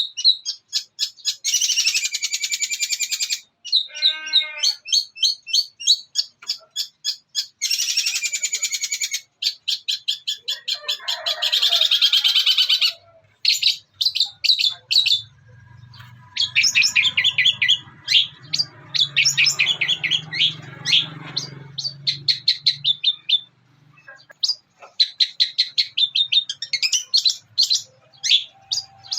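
Long-tailed shrike (cendet) singing its mimicking song: bursts of fast, harsh chattering and clicking trills broken by short pauses. A run of lower falling notes comes about four seconds in.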